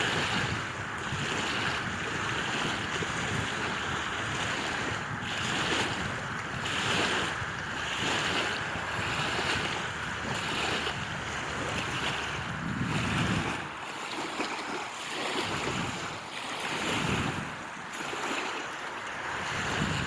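Wind blowing outdoors and buffeting the microphone: a steady rushing noise that swells and eases in gusts, with deeper low rumbles from the gusts.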